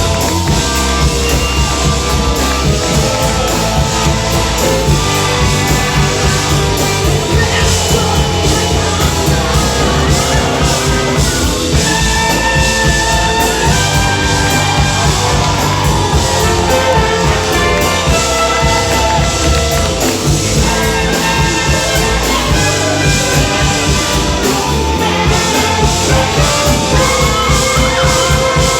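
Live rock band playing loud and unbroken, with a heavy low end and sustained instrumental notes over it.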